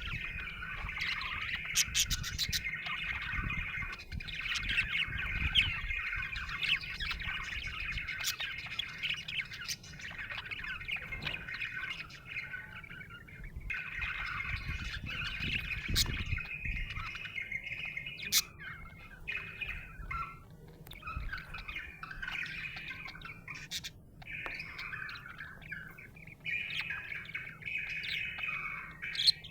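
Budgerigar chattering and warbling, a steady stream of chirps and squawks with a short lull about halfway through.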